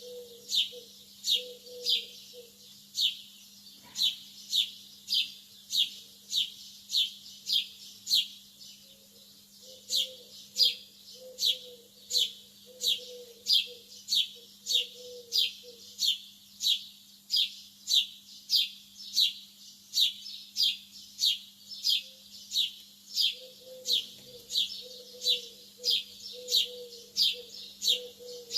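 Lovebirds chirping: short, sharp, downward-sliding chirps repeated evenly about twice a second, with a brief pause about eight seconds in, over a faint steady low hum.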